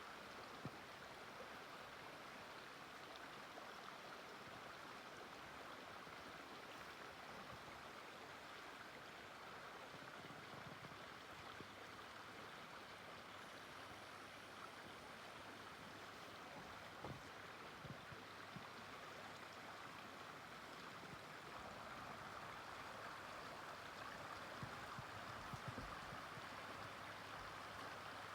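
Faint, steady rushing of a running stream, with a few soft low thumps in the second half.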